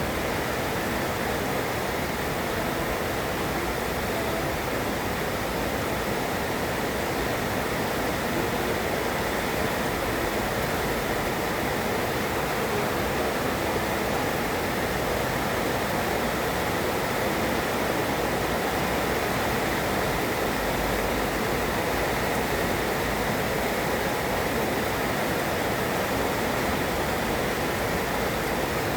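Heavy rain pouring down in a steady, unbroken hiss, with no thunder heard.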